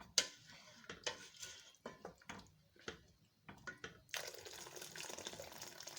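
A few light clinks and knocks of utensils against a cooking pot, then, about four seconds in, a steady rush of water begins to pour, topping up the water in a pot of rice for kabsa.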